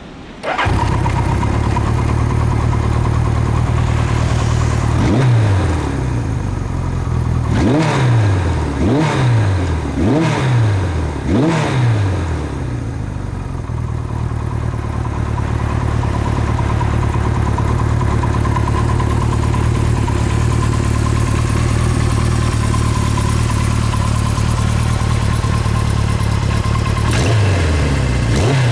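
Kawasaki Z1A's 903 cc air-cooled inline-four motorcycle engine and exhaust, coming in suddenly about half a second in and then idling, with about five quick throttle blips between five and twelve seconds in and a couple more near the end.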